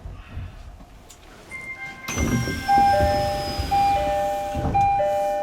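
Electronic station platform chime: a two-note figure, higher then lower, repeating about once a second, over the low rumble of the stopped train. It signals the coming departure.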